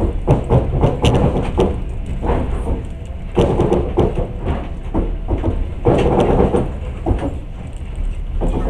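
Passenger train carriage running on the rails: a steady low rumble with many irregular knocks and rattles from the wheels and carriage.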